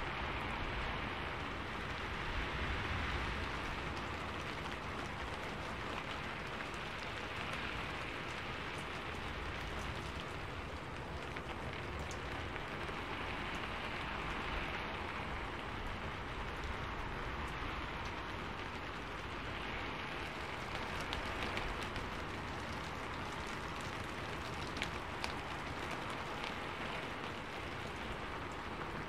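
Steady rain falling, a dense even hiss that swells and eases gently every few seconds, with a few sharper drop ticks near the end.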